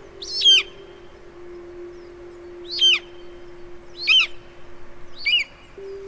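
A bird calling four times, each a short call that slides downward in pitch, spaced a second or more apart, over a steady low tone.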